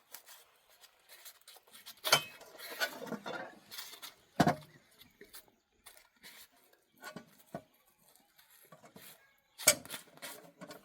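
Irregular knocks, clicks and clatter of objects being handled, with louder knocks about two seconds in, a little over four seconds in, and near the end.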